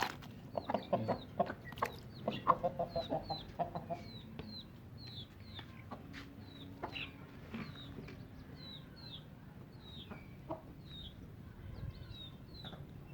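Chickens clucking while they eat scattered roti, mostly in the first four seconds, with sharp taps among the clucks. Short high chirps repeat about twice a second throughout.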